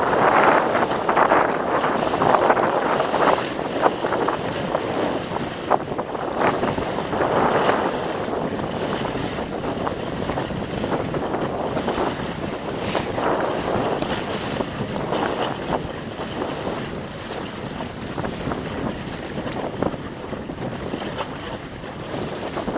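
Wind buffeting the microphone over water rushing and splashing along the hull of a small sailboat sailing in a strong breeze. It surges louder in gusts during the first several seconds, then settles to a steadier rush.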